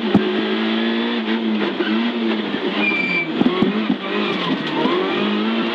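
Rally car engine heard from inside the cabin, its revs dipping and climbing again several times as the car is driven through a tight right hairpin.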